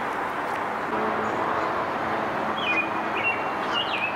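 A small bird chirping several times in the second half, short high calls that each slide down in pitch, over a steady rushing background noise.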